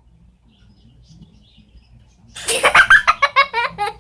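A talking bird mimicking human laughter: a quick run of ha-ha sounds that starts a little over two seconds in, given in answer to the question "What are the puppies doing?"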